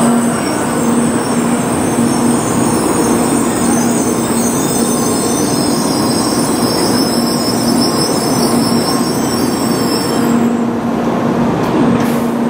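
N700A Shinkansen train moving slowly along a station platform: steady rolling noise with a steady low hum.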